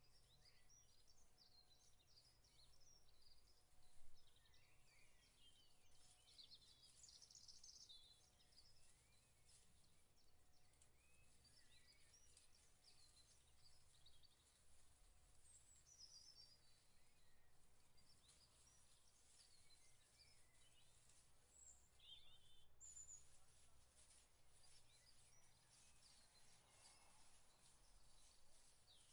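Faint outdoor ambience with small birds chirping and twittering on and off throughout, and a single short bump about four seconds in.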